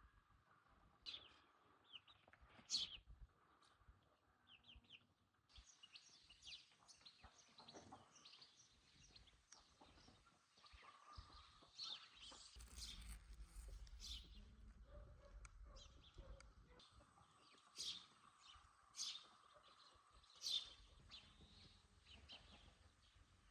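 Faint birdsong: scattered short chirps, a few louder calls standing out near the start and again in the last third.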